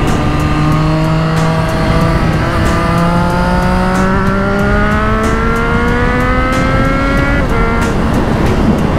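Triumph Street Triple RS 765 cc three-cylinder engine through a Yoshimura Alpha T exhaust, revs climbing steadily under acceleration in one gear, then dropping with an upshift near the end. Wind buffets the microphone underneath.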